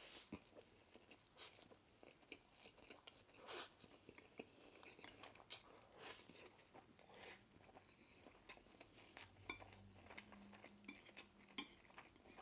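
Faint close-up eating sounds: soft, irregular mouth clicks and smacks of someone chewing.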